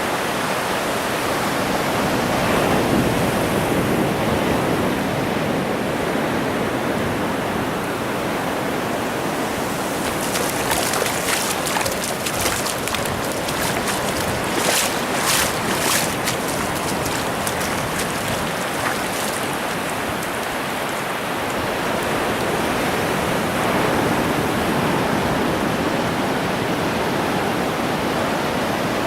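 Ocean surf washing onto a beach, a steady rush that swells twice as waves come in. A brief run of sharp crackles near the middle.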